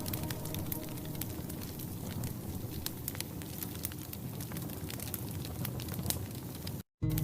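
Wood fire crackling in a fireplace, with frequent sharp pops over a steady low hiss. The sound cuts out for an instant near the end.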